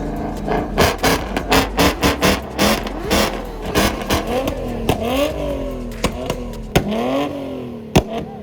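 A car engine revved up and down repeatedly in quick blips, with a run of sharp pops through the first half and one loud crack near the end.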